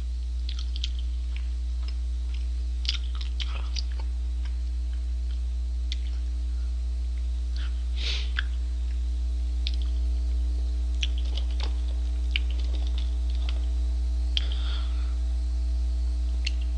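A man chewing a mouthful of double-patty cheeseburger, with scattered soft mouth clicks and smacks. Under it runs a steady low electrical hum.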